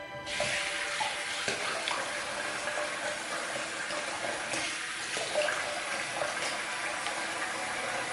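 Tap running steadily into a bathroom sink, with small splashes from water being scooped to rinse the face. The flow starts about a third of a second in.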